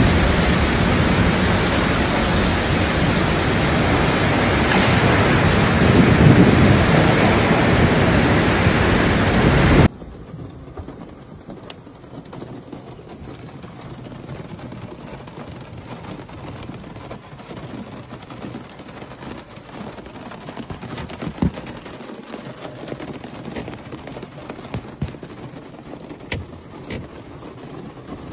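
Loud, steady rushing noise of a heavy rainstorm. About ten seconds in it cuts off abruptly to a much quieter, even hiss with a few faint clicks.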